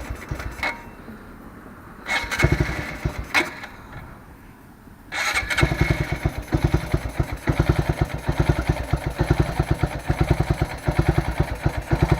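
Honda Grom's 125 cc single-cylinder engine on the electric starter in a cold start with the cold-start switch off: two short goes of about a second and a half, then a long one of about seven seconds with fast, even pulses, struggling to start.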